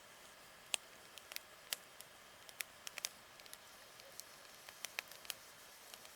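Campfire crackling: irregular sharp pops and snaps from the burning wood, over a faint steady hiss.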